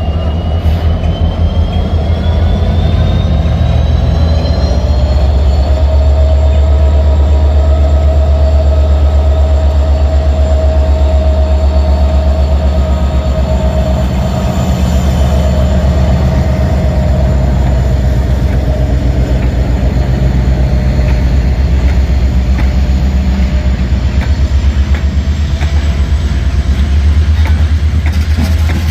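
Diesel locomotive hauling a train under power: a loud, steady low engine drone, with a high whine that rises in pitch over the first five seconds as it gathers speed, then holds steady.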